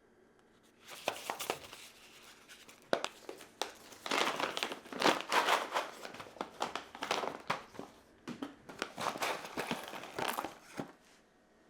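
Crinkly wrapping being handled, rustling in irregular bursts with a few sharp clicks.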